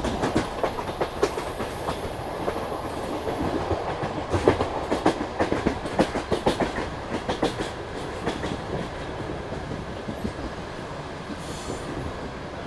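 Passenger train wheels clattering over rail joints and switches as the train pulls into a station. The clatter is loudest a few seconds in, then thins out and fades to a low rumble in the second half as the train slows. A faint high whine runs through the first few seconds.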